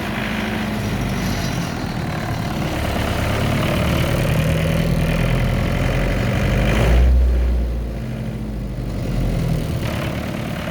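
Yanmar generator engine running steadily at low speed, with a deeper, louder surge about seven seconds in, after which the engine's higher-pitched noise drops away for a couple of seconds.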